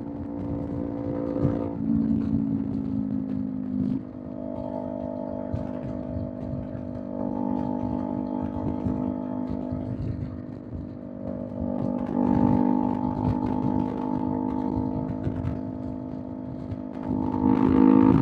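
Kawasaki Z400 parallel-twin with a Villain M1 aftermarket exhaust, cruising on the highway at a fairly steady engine note. The note eases off about four seconds in and builds again around twelve seconds and near the end, as the throttle opens.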